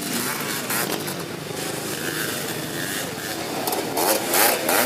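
Three-wheeler ATC motocross engines revving and changing pitch as the trikes race, louder near the end as machines pass close.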